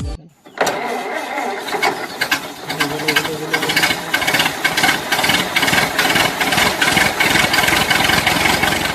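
A small engine or motor running with a fast, even clatter. It starts about half a second in, after a brief gap, and stops just before the end.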